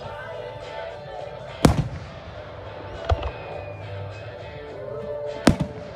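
Fireworks going off: a loud bang about two seconds in, a smaller pop about three seconds in, and another loud bang near the end, each trailing off briefly, over background music.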